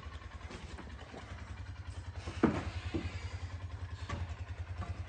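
Polaris Ranger 570 UTV's single-cylinder engine idling with a steady, even low pulse, with two knocks about halfway through.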